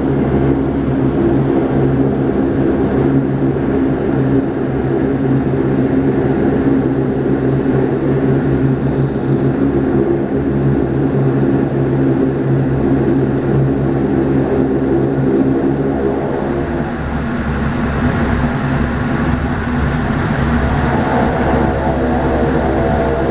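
Cabin drone of a Saab 340B's twin turboprop engines and propellers in flight, a steady hum with strong low tones. About 17 seconds in, the pitch of the hum shifts and a new higher set of tones comes in.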